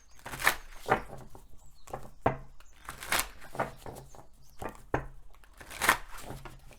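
Oracle cards being shuffled and handled: a run of irregular papery slaps and rustles of card stock.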